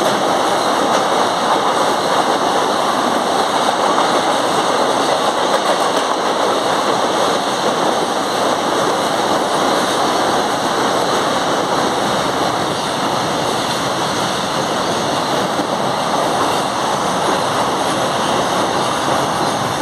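Freight train's container flat wagons rolling past on steel wheels over the rails, a loud, steady rolling noise.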